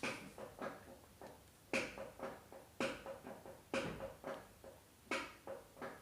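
Car clutch pedal squeaking each time it is pushed down and let up, about five strokes, each a short creak.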